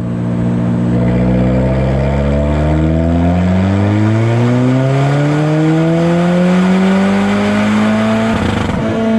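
Alfa Romeo 4C's turbocharged 1.75-litre four-cylinder engine pulling at full throttle on a dyno, its note rising steadily in pitch for about eight seconds. Near the end there is a brief rasp and the revs level off and hold at the top.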